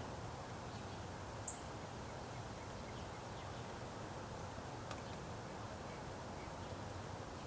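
Steady outdoor ambience under a few short, high bird chirps, the clearest about a second and a half in.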